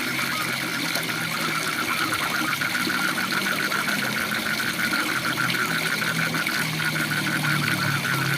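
Waterfall rushing steadily, with rapid short chirping calls repeated about four times a second over it. A low steady hum grows louder near the end.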